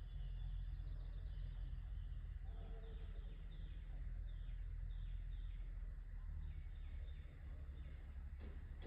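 Bird calling a quick series of short, falling, high chirps over a steady low rumble.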